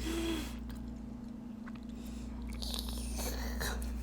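Close-miked chewing and biting of food, soft wet mouth sounds that grow a little louder past the middle, over a faint steady low electrical hum.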